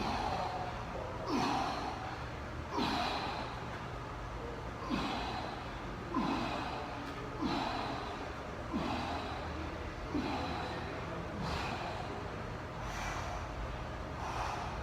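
A person breathing hard from exertion, with a forceful, slightly voiced exhale about every second and a half, in rhythm with repeated single-leg pistol squats. A steady low hum runs underneath.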